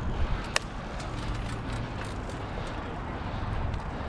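Road traffic heard while riding a bicycle in the street: a steady low rumble, with one sharp click about half a second in.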